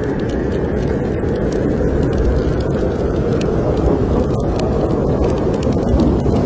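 Snowstorm wind making a steady, deep roar, with the small sharp crackles and pops of a wood fire burning in a fireplace scattered over it.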